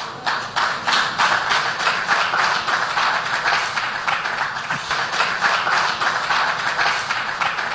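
Rapid, irregular percussive tapping, several sharp strikes a second.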